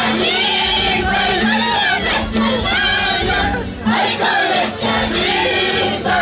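A group of voices singing an Andean festival song together over instrumental accompaniment, the sung lines wavering and pausing briefly every second or two.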